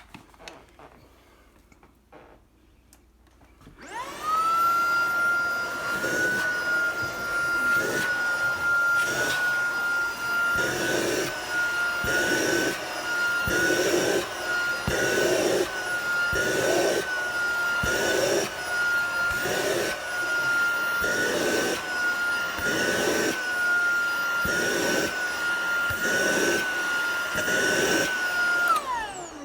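Tineco cordless stick vacuum switched on about four seconds in, spinning up to a steady high motor whine. The upholstery tool, with its brush off, is worked over fabric, and the sound pulses about once a second. The motor switches off near the end, its whine falling away.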